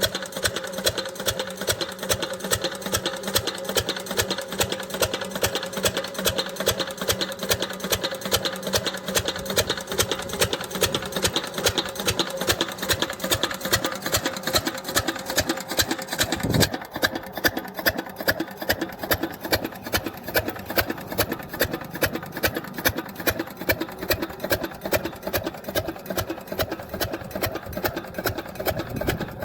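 Diesel engine driving an irrigation water pump, running steadily with an even, rapid beat. About halfway through, the sound turns duller.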